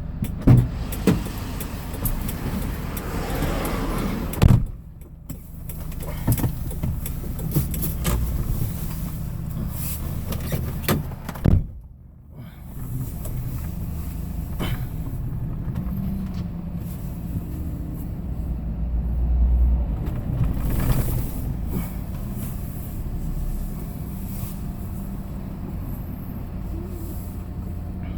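Hyundai Porter II box truck driving, a steady low engine and road rumble with several sharp knocks and rattles along the way.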